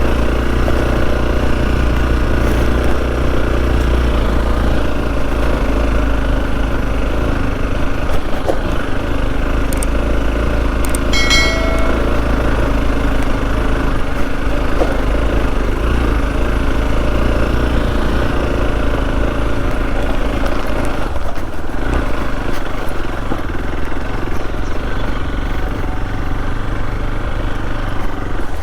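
Motorcycle engine running steadily at low speed as the bike is ridden along a rough off-road trail, with heavy low rumble on the microphone. A short pitched sound cuts through briefly about 11 seconds in.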